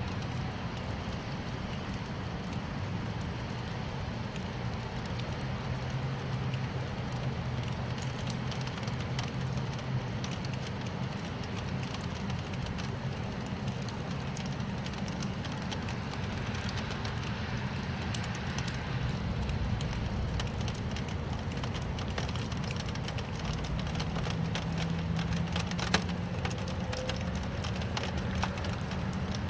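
Steady rain, an even hiss with scattered drop ticks, over a low rumble that carries a faint steady hum. One sharp tick near the end.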